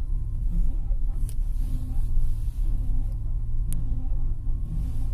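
Steady low road rumble of a car in motion, heard inside the cabin, with two short sharp clicks.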